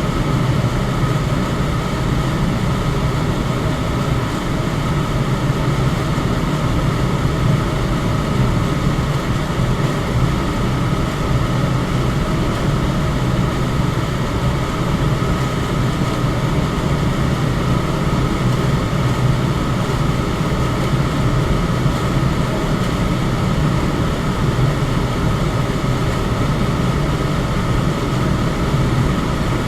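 Electric fan running steadily: an even rush of air with a low hum and a faint steady tone above it.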